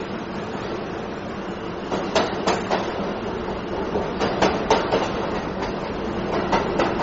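Budapest metro train moving along an underground platform with a steady rumble. From about two seconds in, its wheels clack over the rail joints in quick groups of two to four, and the sound grows a little louder.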